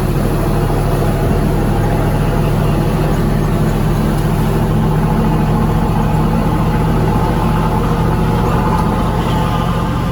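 Dump truck's V8 engine idling steadily, with an even low exhaust note that neither rises nor falls.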